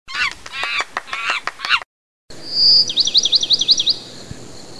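Bird calls: a quick run of high chirps, then after a short break a held high whistle that turns into a fast trill of rising-and-falling notes, about six a second.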